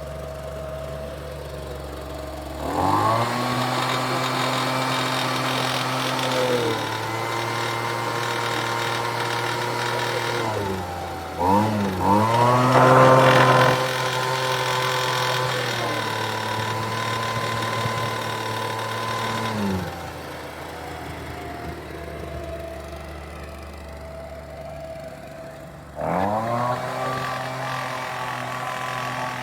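Homelite UT08572 backpack leaf blower's 30cc two-stroke engine running and being revved by throttle: it idles, climbs sharply to high speed about three seconds in, eases back, stumbles briefly and surges again around the middle, drops to idle, then revs up again near the end.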